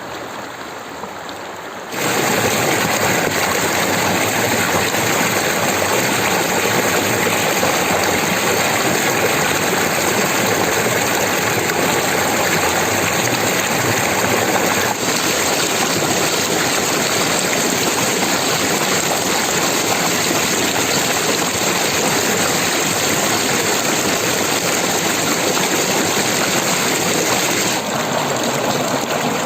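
Stream water rushing and splashing in a steady, full noise. It steps up suddenly in loudness about two seconds in and eases a little near the end.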